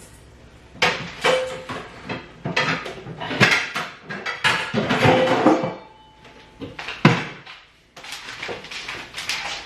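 Food-storage containers clattering and knocking as they are rummaged through and handled, with irregular sharp knocks; one of the loudest comes about seven seconds in.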